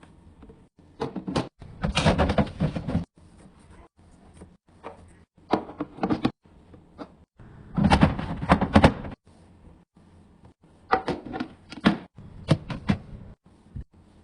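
Items and containers being handled while restocking a refrigerator: sharp clicks and knocks as things are set down, opened and shut, with two longer stretches of scraping and rustling, about two and eight seconds in.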